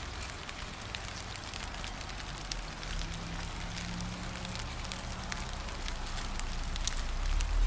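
Steady gentle rain: a hiss with many separate drops ticking, and a low rumble that swells near the end.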